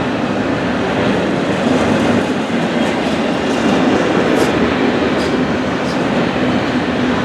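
BNSF intermodal freight train passing, a loud steady rumble of wheels on rail, with a few sharp clicks in the second half.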